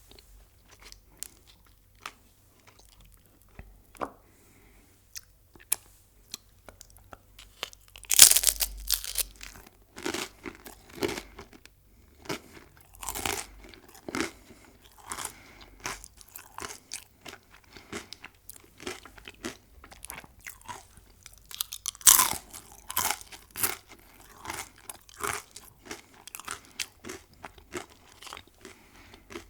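Close-miked eating of crunchy food: a loud crunching bite about eight seconds in and another about twenty-two seconds in, each followed by a run of crunchy chewing, with softer crackles between.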